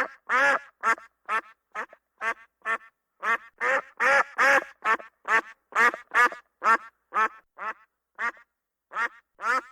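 An animal giving a rapid series of short, pitched calls, about two or three a second, with brief gaps between them.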